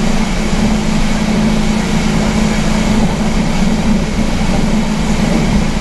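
Speedboat engine running steadily at speed, a constant low hum under a loud even rush of wind and water.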